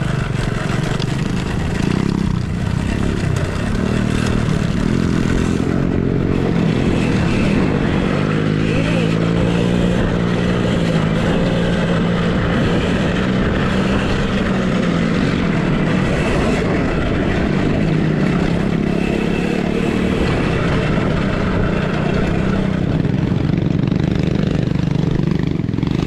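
Off-road motorcycles racing. Engine pitch rises and falls again and again over a steady low rumble.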